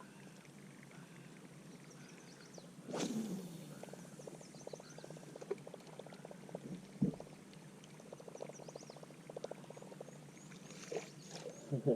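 A fishing cast: a whoosh about three seconds in as the reel's spool whirs down in pitch. Then the reel is cranked in a fast run of even clicks, with one knock partway through and faint bird chirps.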